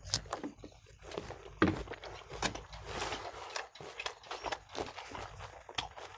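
Crunching and chewing of raw green jujubes (boroi): a run of irregular crisp crunches, picked up close by clip-on microphones, with one loud bite about a second and a half in.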